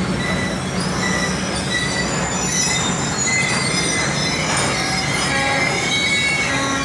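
Loaded ore and container wagons of a long freight train rolling past close by: a steady, loud rumble of steel wheels on rail, with short high-pitched wheel squeals coming and going over it.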